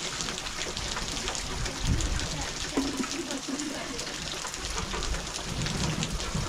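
Steady patter of rain, a dense hiss of fine drops, with a few low rumbles rising about two seconds in and again near the end.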